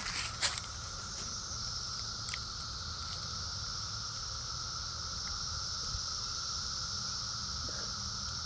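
Chorus of periodical cicadas: a steady, unbroken drone with a lower buzzing tone and a higher hiss layered over it. A couple of sharp knocks sound in the first half-second.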